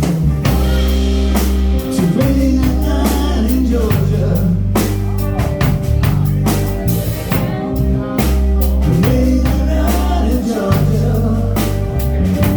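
A band playing a slow blues ballad: drum kit keeping the beat, long held bass notes and bending guitar lines between the sung phrases.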